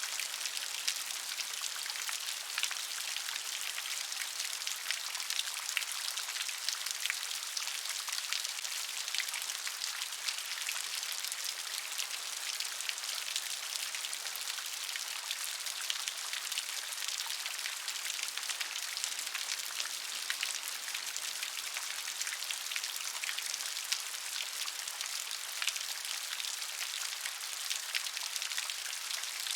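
Steady gentle rain: a soft hiss of rainfall with many small drop ticks, even throughout, with no thunder or other sounds.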